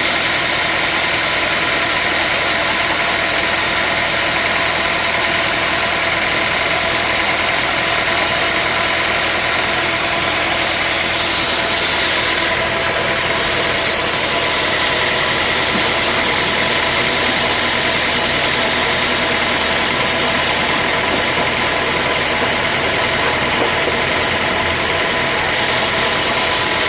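Sawmill machinery running steadily: a loud, even machine noise with a few held tones that barely changes.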